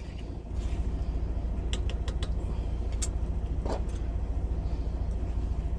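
Diesel truck engine idling: a steady, fast-pulsing low rumble that gets louder about half a second in, with a few light clicks over it.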